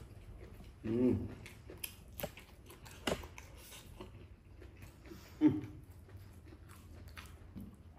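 A man chewing and smacking his lips while eating rice and curry by hand, with sharp mouth clicks. There are two short hums of voice, about a second in and again past the middle.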